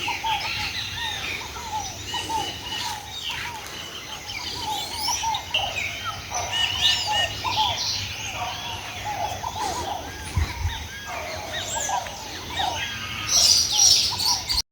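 A chorus of many birds calling at once, dense overlapping chirps and short trills, over a steady low hum. It grows briefly louder and higher just before cutting off abruptly near the end.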